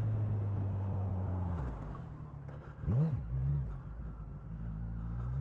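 Motorcycle engine running steadily, dropping to a lower idle about a second and a half in, with one quick throttle blip that rises and falls about three seconds in.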